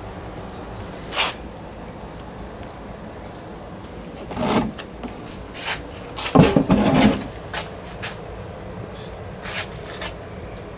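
Knocks and scraping of metal parts being handled while a ceiling fan motor is taken apart for its copper. A louder rattling clatter comes about six and a half seconds in, over steady background noise.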